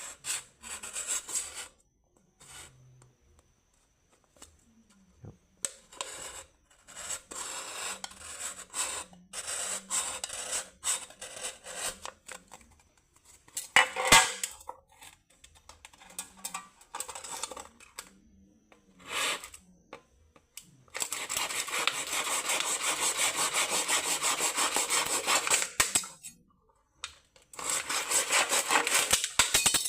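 Aluminium beer can being cut and scraped by hand: irregular scraping strokes and a sharp click, then a steady, rapid rasping for about five seconds past the middle, and again briefly near the end.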